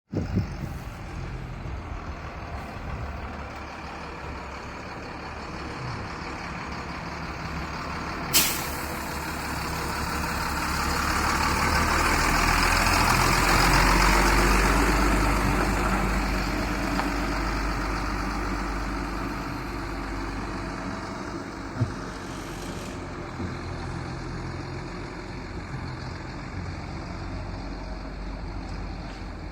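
HOWO 6x4 tractor truck's diesel engine running. Its rumble swells to a louder peak around the middle, then eases back. About eight seconds in there is one sharp air-brake hiss.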